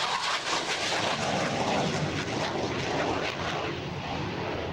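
Hawker Hunter jet in flight during a display, a steady rushing jet noise that eases off a little near the end.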